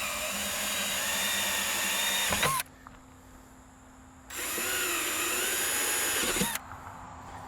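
Power drill boring an eighth-inch hole in car-body sheet metal, in two runs: the first stops about two and a half seconds in, and the second runs from about four seconds to six and a half. The motor's whine wavers as the bit loads up and falls in pitch as each run stops.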